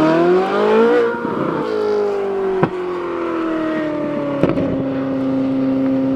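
Ferrari 458 Italia's naturally aspirated V8 through an iPE exhaust, revving up under acceleration for about a second. The engine note then falls gradually and settles into a steady lower drone as the car drives away. Two sharp cracks come partway through.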